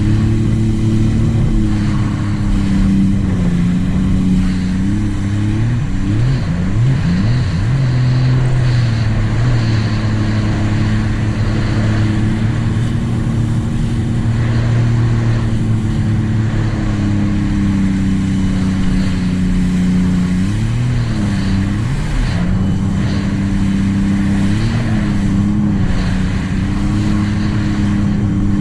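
Supercharged three-cylinder engine of a 2018 Sea-Doo RXT-X 300 personal watercraft running at a steady cruise, with wind and water noise over it. Its pitch dips and picks back up a few times about six seconds in and again around twenty-one seconds in, as the throttle is eased and reapplied.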